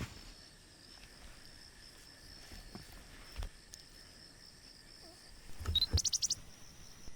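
Steady high-pitched drone of insects, with a bird's quick run of five or six chirps about six seconds in and a few soft low thumps.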